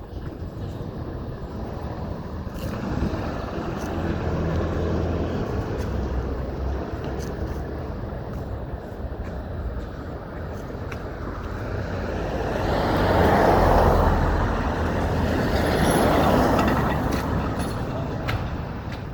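Street traffic: a vehicle engine running with a low hum, then vehicles driving past, the loudest passes about two-thirds of the way in and again a few seconds later.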